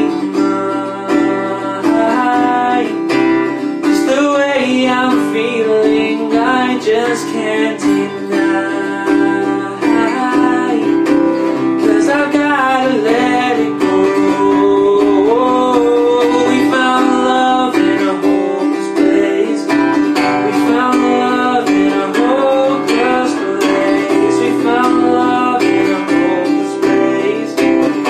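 Acoustic guitar strumming steadily with a singing voice gliding over it.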